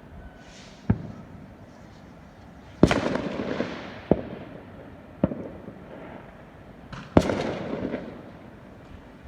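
Fireworks going off: about five sharp bangs spread over nine seconds, the two loudest each trailing off over about a second.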